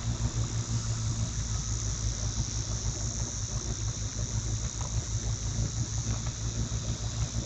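A vehicle engine running steadily, with a constant high-pitched insect drone over it.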